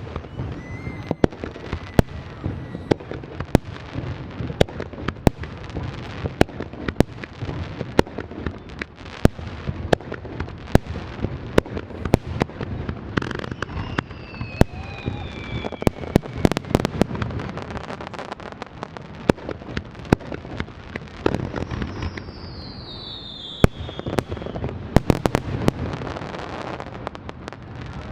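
Aerial fireworks display: rapid, constant shell bursts over continuous crackling, with two falling whistling tones in the second half.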